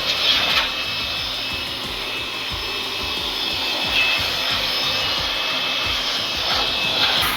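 An electric motor-driven cleaning machine running steadily, with rushing air and a thin high whine held at one pitch, with a few small swells in level.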